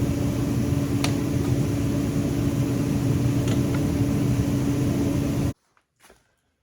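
Electric drill running steadily with a constant motor hum while boring holes in steel, with a couple of light ticks; it cuts off suddenly near the end.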